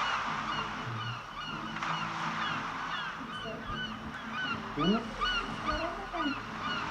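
Birds calling: a steady run of short, falling chirps, several a second, with a few lower sliding calls about two-thirds of the way through.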